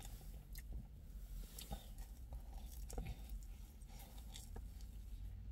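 A person chewing and biting into a slice of pizza, with soft mouth clicks and smacks about once a second, heard inside a car's cabin.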